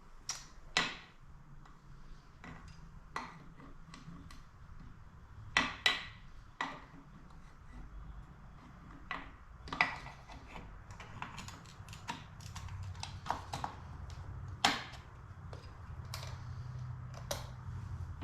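Small metal tools and engine parts clicking and tapping as they are handled and set down on a workbench, a dozen or so sharp clicks at irregular intervals over a faint low hum.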